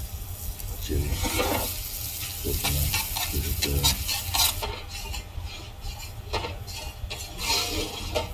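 Chopped onions sizzling in oil in a large pan while a spatula stirs and scrapes through them.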